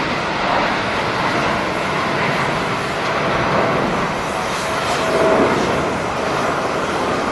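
Jet airliner engine noise, a loud, steady rushing sound that swells slightly about five seconds in.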